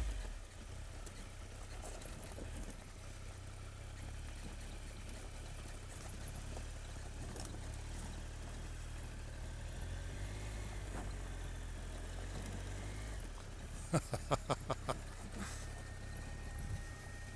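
Triumph Tiger 1200's three-cylinder engine running as the motorcycle rides slowly, a steady low rumble. About fourteen seconds in comes a quick run of about six sharp knocks.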